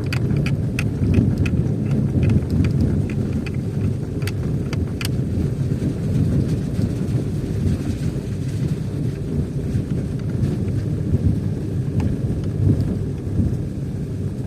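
Steady low rumble of a car driving, road and wind noise, with a scatter of light clicks and ticks in the first few seconds.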